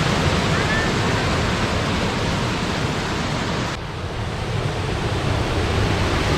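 Steady rush of the Belye Mosty (Jukankoski) waterfall, a dense, even sound of falling water that dips for a moment a little under four seconds in.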